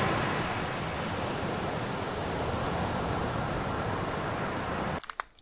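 Ocean surf washing steadily onto a beach, which cuts off suddenly near the end, leaving a few faint clicks.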